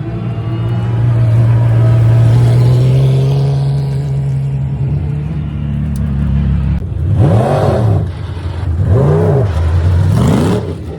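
Race car engine running steadily, then revved in three short blips, each rising and falling in pitch, over the last few seconds.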